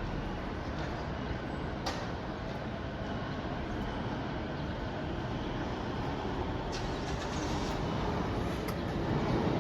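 City bus engine idling steadily, with a few short clicks about two, seven and nine seconds in.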